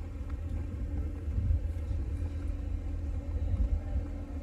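Low, uneven rumble of a car moving slowly, heard from inside the cabin, with a faint steady engine hum.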